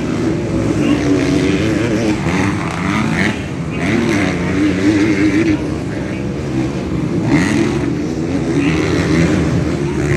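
Motocross bike engines revving up and down, several at once, with the pitch rising and falling continuously as the bikes race on the dirt track.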